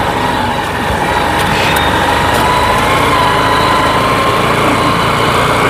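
Honda Shine motorcycle engine running at low, steady speed while riding over a soft, muddy dirt track, a steady drone with a high whine that wavers slightly.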